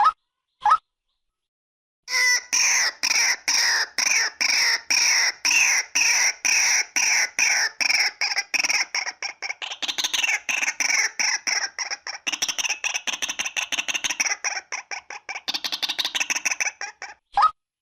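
Female white-breasted waterhen calling: a lone sharp note, then from about two seconds in a long run of harsh repeated calls that speeds up in its second half, then lone notes again near the end.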